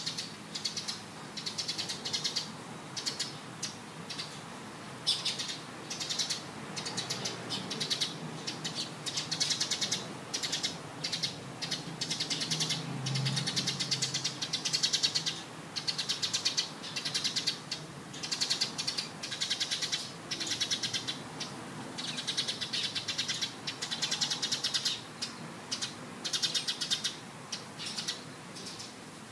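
Small birds calling in quick, trilled bursts high in pitch, one after another, with only brief gaps between them.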